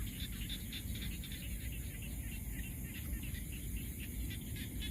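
Night-time field chorus of calling animals: a rapid, even chirping of about six pulses a second, over a low rumbling background.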